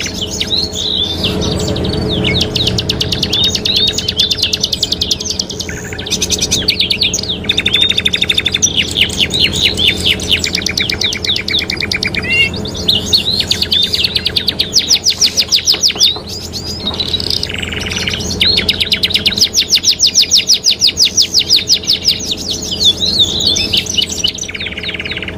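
Domestic canaries singing: fast rolling trills and chirps, one phrase straight after another, over a steady low hum.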